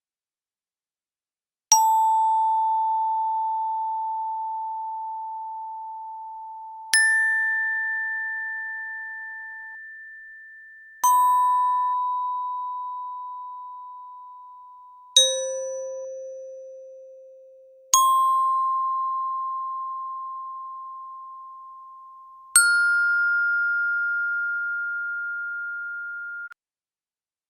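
Six single chime dings at different pitches, a few seconds apart, each struck once and left to ring slowly away; the last one stops abruptly.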